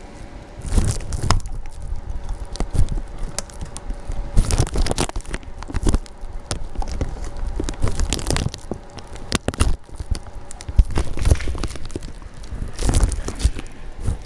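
Irregular crunching and crackling of footsteps through deep snow, with wind buffeting the microphone in low rumbling gusts.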